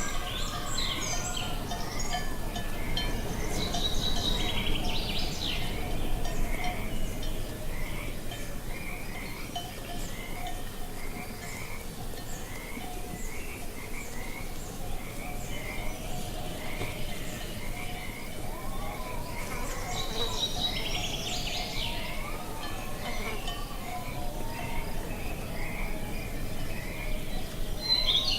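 Birds singing outdoors: a short chirp repeated steadily, with louder bursts of varied birdsong twice, over a low rustle of wind.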